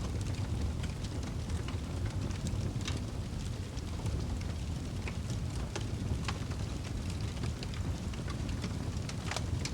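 Wood fire in a fireplace burning with a steady low rumble, dotted with irregular sharp crackles and pops.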